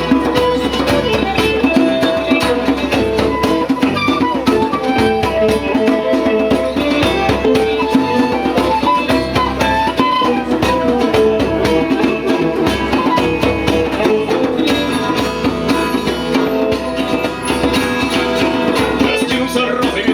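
Band playing instrumental music: plucked strings, guitar-like, over drums in a steady rhythm, with no singing.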